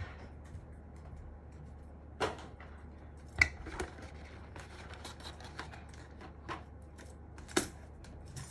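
Scattered sharp plastic clicks and taps of mechanical keyboard parts being handled and fitted together, about half a dozen in all, with two louder snaps about three and a half seconds and seven and a half seconds in.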